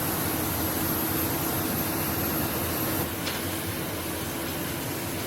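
Steady machinery noise: an even rush with a constant low hum and a thin high whine. It drops slightly about three seconds in, with a faint tick just after.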